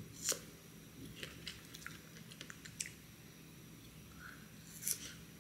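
Close-up eating sounds of fresh strawberries being bitten and chewed: two sharp bites, one just after the start and one near the end, with soft wet chewing clicks between.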